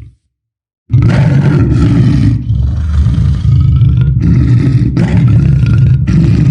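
Lion roaring: after a brief silence, a loud, low, rough roar starts about a second in and goes on with only short breaks.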